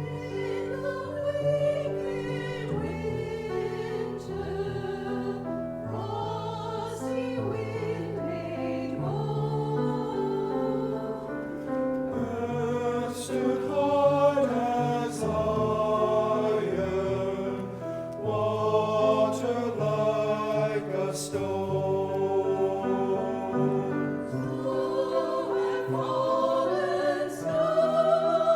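A choir singing a hymn or carol in parts, with piano or organ accompaniment beneath sustained chords.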